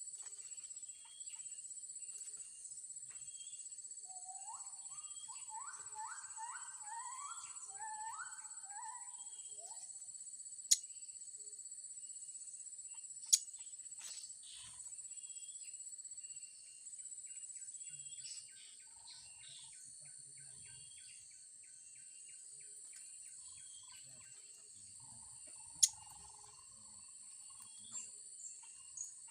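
Steady high-pitched insect drone, crickets or cicadas, with a bird calling a quick run of short rising notes for a few seconds, and three sharp clicks standing out above it.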